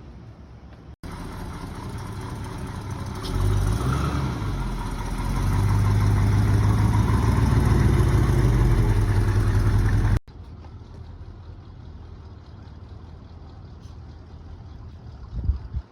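Car engine running, revved up about three seconds in and held higher from about five seconds on, then cut off abruptly; before and after it only a quiet outdoor hiss remains.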